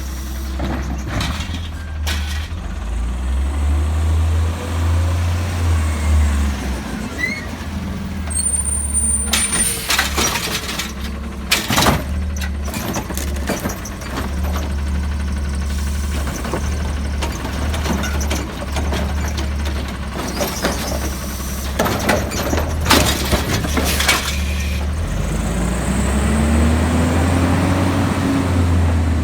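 Garbage truck on a recycling route: its engine running steadily, with air-brake hisses and a few bangs from the collection work, and the engine revving up and back down near the end.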